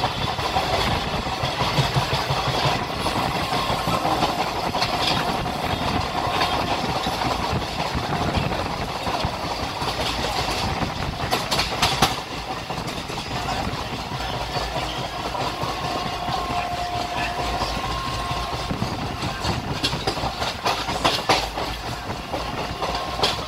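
Moving train heard from inside the carriage: a steady rumble of wheels on the rails, with sharper clacks from the wheels over rail joints about halfway through and again near the end.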